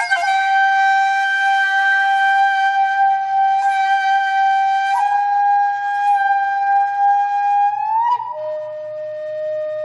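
Background music: a flute-like wind instrument holding one long note, then moving to a lower long note about eight seconds in.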